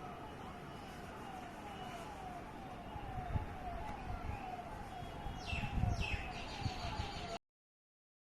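Emergency vehicle siren sounding a repeating falling tone, about twice a second, over background noise with a few low thumps; the sound cuts off suddenly near the end.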